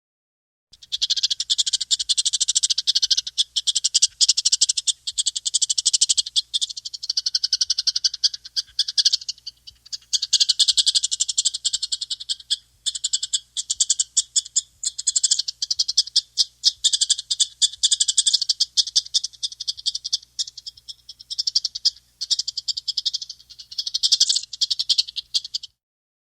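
A loud, high-pitched animal trill made of very rapid pulses, repeated in long runs separated by brief pauses, starting about a second in and cutting off near the end.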